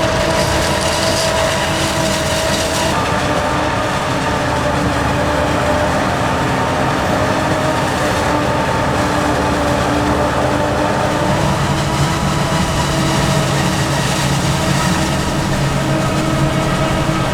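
Diesel engines of heavy farm machinery running steadily under load at a corn silage harvest, a loud drone whose pitch shifts slightly about three seconds in and again later.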